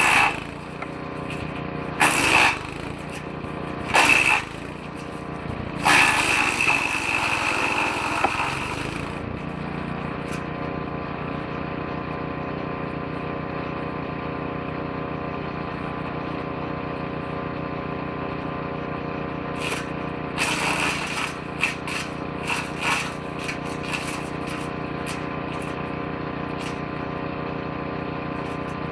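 Engine-driven drum woodchipper running steadily, with loud bursts of shredding as branches are fed in: three short bursts early on, a longer one of about three seconds, then a ragged cluster about two-thirds through.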